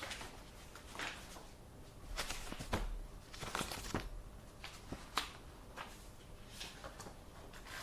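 Sheets of paper being handled and rustled, with scattered short clicks and light knocks between the rustles.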